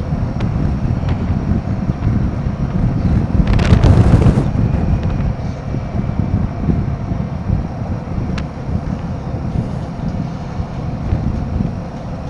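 Wind buffeting the microphone of a moving Royal Enfield Himalayan 450 motorcycle, a steady low rumble with a louder rush of air about four seconds in.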